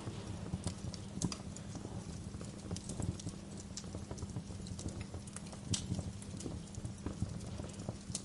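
Wood fire crackling in a fireplace: irregular sharp pops and snaps, a few louder than the rest, over a steady low noise of the burning.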